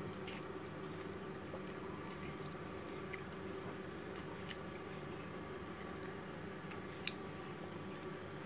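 Quiet chewing of crispy fried small crabs: soft crunching and small clicks over a low steady room hum, with one sharper click about seven seconds in.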